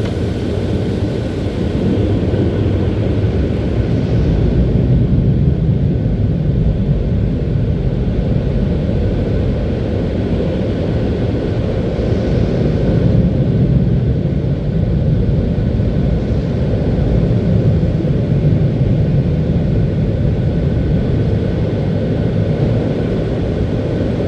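Automatic car wash machinery running, a loud, steady low rumble with a faint steady whine above it.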